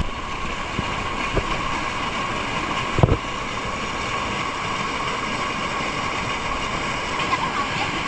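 Steady rush of a waterfall's falling water, with a single thump about three seconds in.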